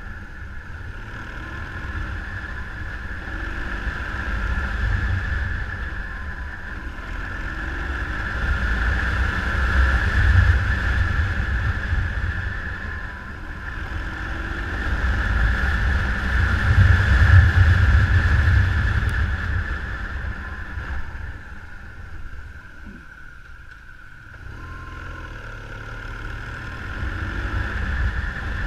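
Motorcycle riding, its engine under a heavy low rumble of wind on the microphone. The sound swells louder twice and eases off near the end.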